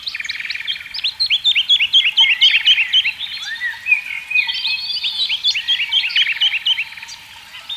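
Several songbirds singing together, many short quick chirps overlapping, with a few fast buzzy trills in between.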